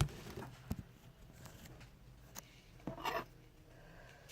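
A few light knocks and clicks of things being handled: a sharp knock at the start, another just under a second in, and a short cluster of rustling clicks about three seconds in.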